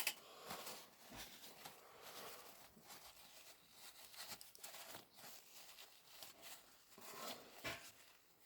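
Faint, irregular rustling and rubbing from hands working a cloth over a small plastic model part, with a few light clicks and taps.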